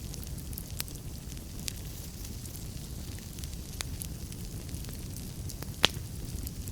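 Wood fire in a fireplace crackling, with a steady low rumble of flames and scattered sharp pops, the loudest near the end.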